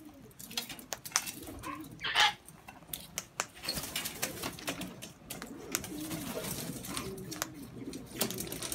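Pigeons cooing in low, wavering calls, with many sharp clicks around them and one short, louder noise about two seconds in.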